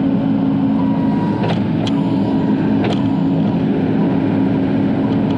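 Bobcat E42 mini excavator's diesel engine running steadily under hydraulic load, heard from inside the operator's cab, with three short sharp clicks in the first half.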